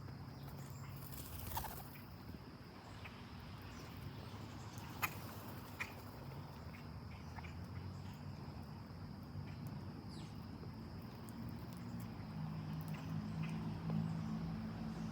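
Outdoor summer ambience: a steady high insect drone, with a low hum underneath that grows louder near the end. A few short bird chirps and a couple of sharp clicks break through, the loudest click about five seconds in.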